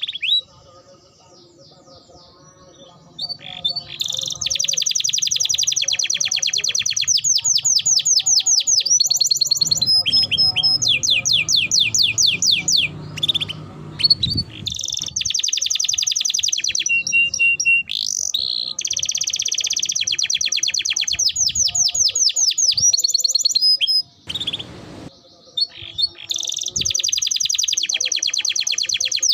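Domestic canary singing long rolling trills of rapidly repeated high notes, with brief pauses at the start and again near the end.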